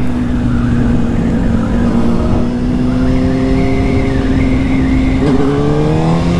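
Motorcycle engine running steadily under way, with wind rush; its pitch rises near the end as it speeds up.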